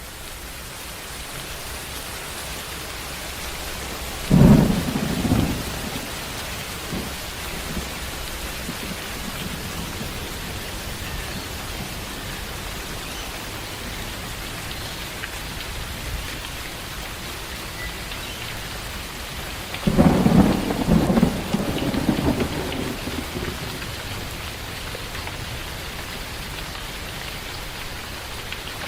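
Steady rain with thunder. A sudden clap about four seconds in dies away within a couple of seconds, and a longer rolling peal comes around twenty seconds in.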